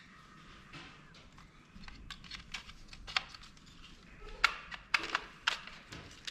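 Irregular small clicks and taps of hard plastic and metal camera parts being worked by hand as a small motor is pried loose from a dome camera's housing. They come more often from about two seconds in, with a few sharper clicks.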